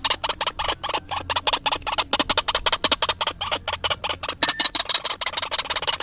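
White-breasted waterhen (ruak-ruak) call recording used as a bird lure: a fast, unbroken run of harsh repeated notes, about nine a second, with a faint low hum underneath.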